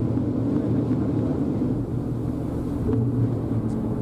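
Ferry's engine running with a steady low drone, its pitch shifting slightly about three seconds in.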